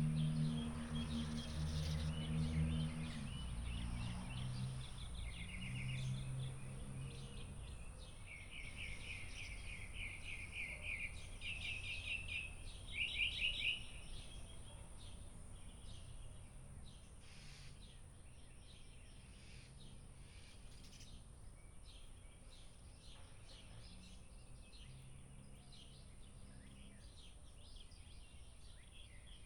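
Wild birds calling: quick trills of repeated chirps, loudest in the middle, then scattered faint chirps. A low droning hum sounds in the first few seconds and fades.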